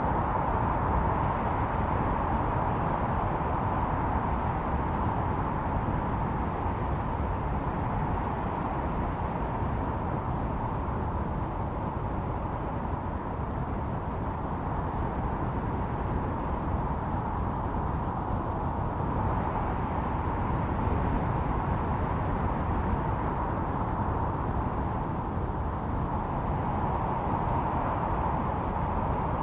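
Blizzard wind blowing steadily with a deep rumble, its higher howl swelling and easing slowly over several seconds at a time.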